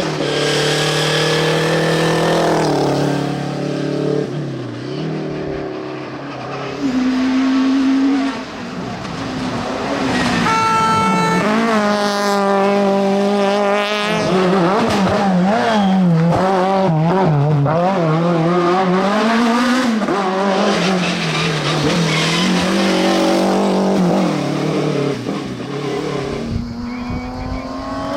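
Rally car engines running hard at racing speed, the note climbing and dropping through gear changes and lifts off the throttle. In the middle the engine pitch wavers rapidly up and down for several seconds as the throttle is worked.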